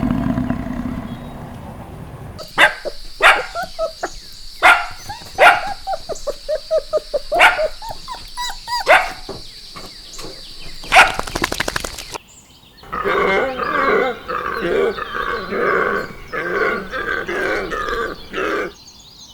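A roar dies away at the start. Then a dog barks in a series of sharp, separate barks over a steady high hiss. From about two-thirds of the way in, a different animal call repeats at an even pace, about one to two pulses a second.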